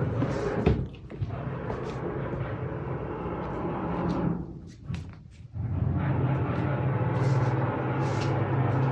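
Construction machinery droning steadily through the apartment, with a sharp knock just under a second in and a brief drop in level about halfway through before it picks up again.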